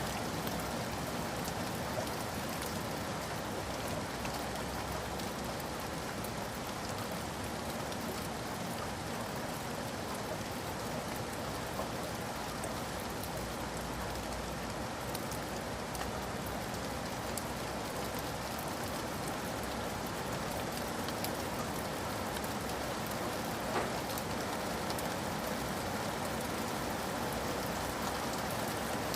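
Steady rain falling, drops pattering on surfaces, with one slightly louder drop tick near the end.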